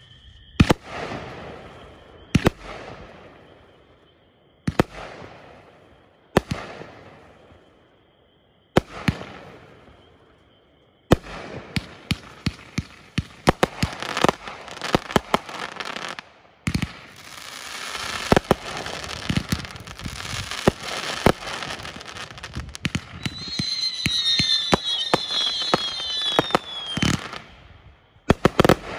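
Consumer fireworks cake (Black Scorpion/Chili 'Rebellious Desire') firing: five single shots a couple of seconds apart, each trailing off in crackle, then from about eleven seconds in a rapid volley of shots with dense crackling. Several falling whistles sound near the end, and one last shot closes it.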